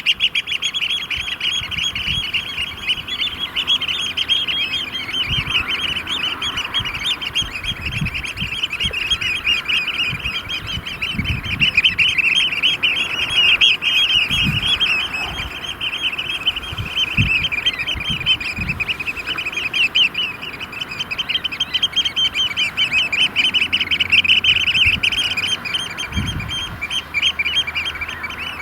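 A flock of Eurasian oystercatchers piping in a dense, rapid, unbroken chorus of high calls: their courtship display. Scattered low thuds sound under the calls.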